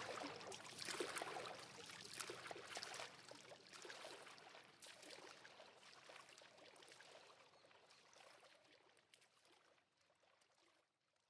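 Faint rain patter with scattered small ticks, fading away over the first few seconds after the music stops, then near silence.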